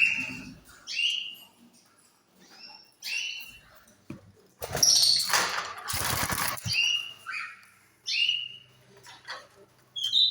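Caged lovebirds chirping, short sharp calls coming about once a second, with a loud rustling burst lasting about two seconds near the middle.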